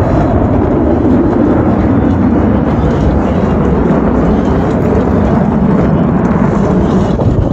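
Loud roar of F-16 fighter jets flying past, a steady deep rumble that slowly drops in pitch.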